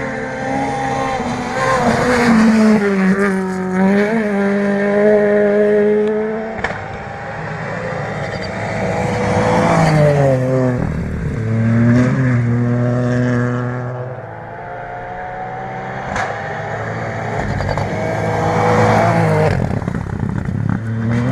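Rally car engine working hard on a gravel special stage, its pitch repeatedly climbing under acceleration and dropping at gear changes and lifts. It grows louder and quieter several times, with a hiss of gravel and tyre noise.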